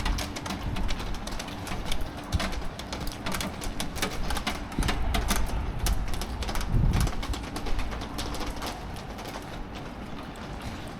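Rain dripping and pattering in dense, irregular clicks, over a low rumble.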